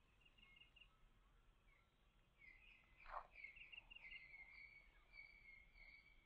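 Near silence with faint birds chirping: short repeated chirps, then a steadier trilling call from about two and a half seconds in.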